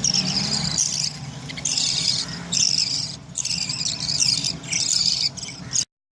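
Budgerigars chattering and chirping in bursts of rapid high warbles, over a low steady hum; the sound cuts off suddenly near the end.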